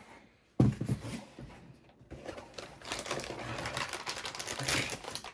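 Handling noise: a sudden knock about half a second in, then dense, rapid clicking and crackling as hardware is handled.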